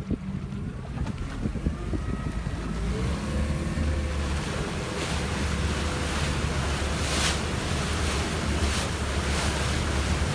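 Bayliner motorboat's engine throttling up as the boat gets under way, with wind and water rush building over the first few seconds and then holding steady over a low engine hum.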